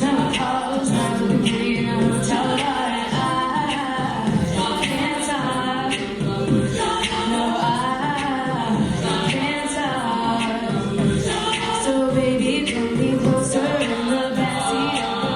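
An a cappella vocal group singing in harmony, several voices at once, with a steady beat of sharp percussive clicks and no instruments.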